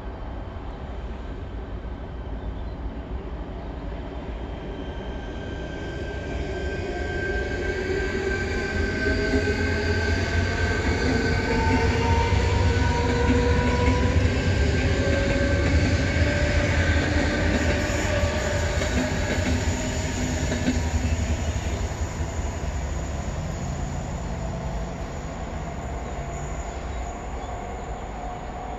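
Czech Railways double-deck electric train passing at speed. It grows louder, peaks about halfway through, then fades, and its whining tones slide down in pitch as it goes by.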